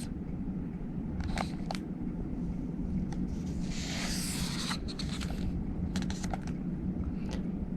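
Paper rustling and scraping as a picture book's page is turned, with a few light clicks of handling before and after, over a steady low room hum.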